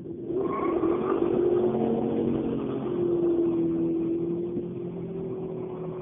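Chevrolet Chevelle's engine run hard at high revs with the rear tyres spinning in a smoky burnout. It comes in abruptly just after the start and holds a loud, steady pitch.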